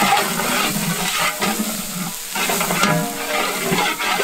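Onions and ginger-garlic paste sizzling in hot oil in a cooking pot, stirred with a ladle that scrapes the pot at irregular intervals.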